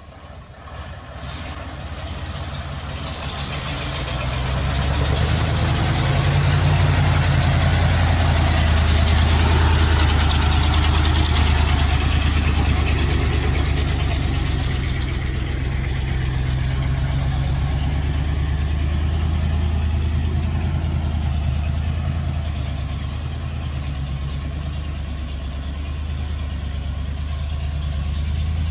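Heavy truck engine running under load, building over the first few seconds to a loud, steady low drone, then easing slightly and holding.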